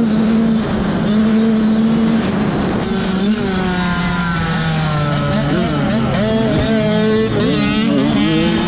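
Several 85cc two-stroke motocross bike engines running hard in a race, their notes overlapping and rising and falling as the riders shift and work the throttle. One steady engine note holds for the first couple of seconds before more bikes join in.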